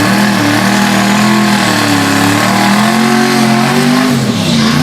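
Drag-racing cars' engines running hard under acceleration, the engine note wavering in pitch, with a drop and a fresh rise about four seconds in like a gear change.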